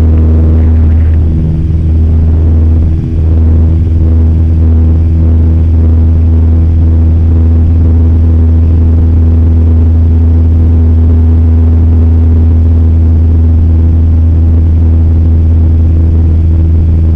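Cessna 172M's engine and propeller running at a steady drone as heard in the cabin, with one brief dip about three seconds in.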